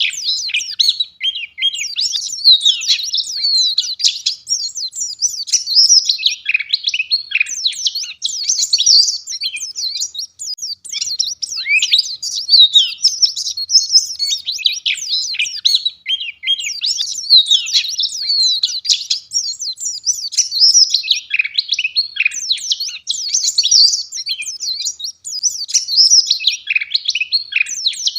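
White-eye (pleci) singing in a rapid, near-continuous stream of high twittering chirps and short sliding notes, broken only by brief pauses.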